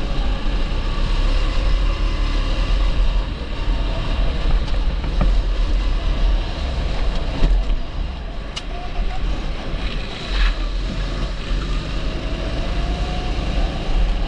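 270cc four-stroke rental kart engine running hard on track, its pitch falling off about two-thirds of the way through and climbing again near the end as the kart slows for a corner and accelerates out, over a heavy low rumble.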